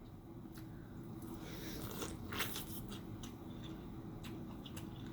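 Close-miked eating: scattered biting and chewing clicks, with a louder crunchy bite about halfway through, over a low steady hum.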